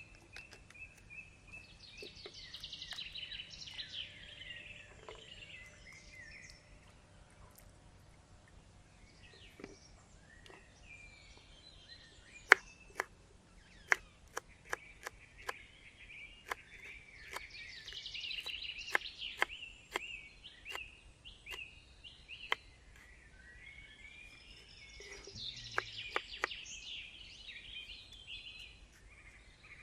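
Birds calling in three chattering bouts, at the start, in the middle and near the end. Between the first two bouts comes a run of about a dozen sharp clicks or snaps, the loudest sounds here.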